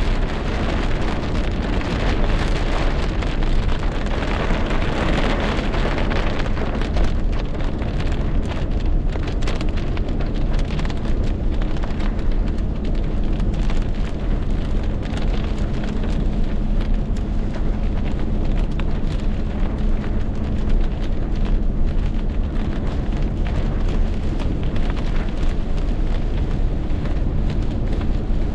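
Heavy rain pouring down in a storm, a dense steady rush full of sharp drop impacts over a constant low rumble.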